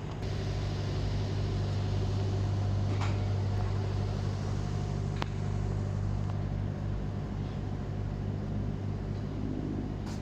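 Steady low mechanical hum of a standing railway locomotive running, with a couple of short sharp clicks about three and five seconds in.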